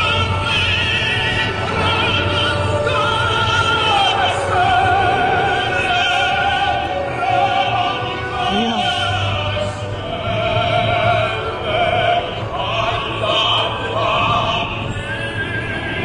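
Operatic singing with a strong, wavering vibrato, held notes changing pitch every second or so, over a steady low hum.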